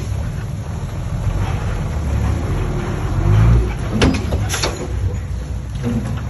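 Diesel earthmoving machinery running with a steady low rumble. Two sharp metallic squeaks or clanks come about four seconds in, half a second apart.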